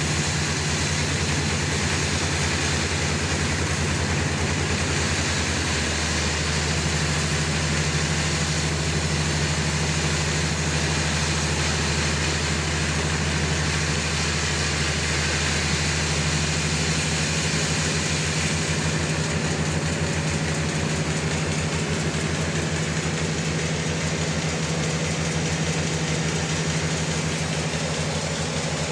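Sawmill's engine running steadily under load while the log is being sawn, a constant low hum with a steady rushing noise over it; the hum's pitch pattern shifts slightly twice.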